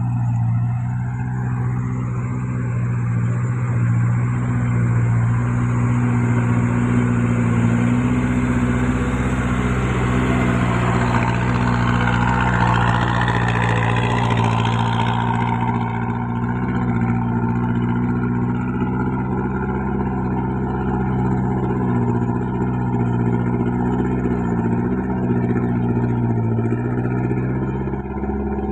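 A Hino Dutro truck's diesel engine pulling uphill under a full load of sand at steady, even revs. A rushing noise swells over the engine toward the middle and drops away suddenly about sixteen seconds in.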